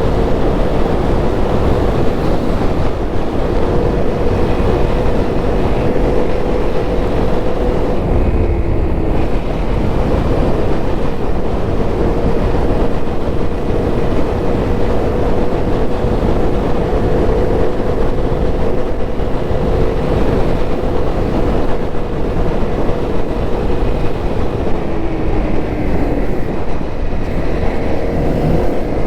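Honda CRF250L's single-cylinder four-stroke engine running at a steady speed on the move. Its note falls briefly about nine seconds in and again near the end, then comes back up.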